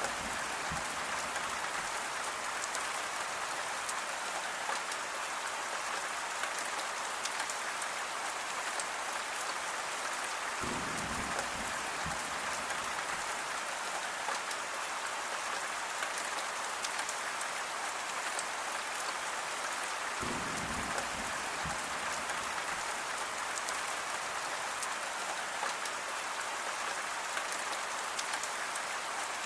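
Steady rain falling on a surface, a dense even hiss dotted with fine drop ticks. Twice, about eleven and twenty seconds in, a brief low sound joins it for a second or so.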